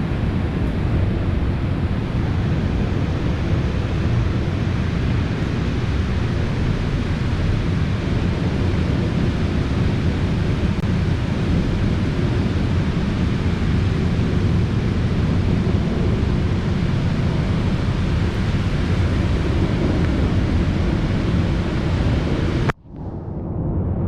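Storm wind blowing hard across the microphone, a steady, deep rushing noise. It cuts out suddenly near the end and swells back.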